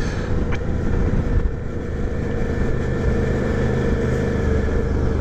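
Motorcycle engine running at a steady cruise with wind and road noise on the helmet or bike microphone; the engine note holds even, with no change in revs.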